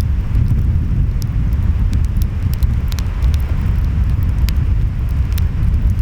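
Wood fire crackling, with scattered sharp pops, over a steady low rumble of ocean waves and wind.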